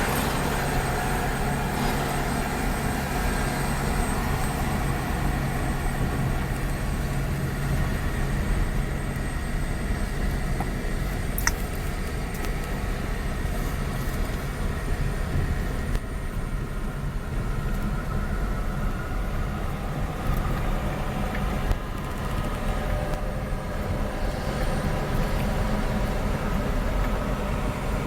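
A motor vehicle's engine running steadily, with road noise. There is a single sharp click about halfway through.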